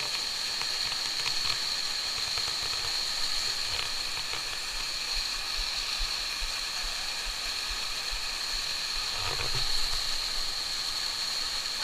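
Steady rush of flowing water from a mountain stream and waterfall, with a constant high hiss over it. There is a brief bump about nine and a half seconds in.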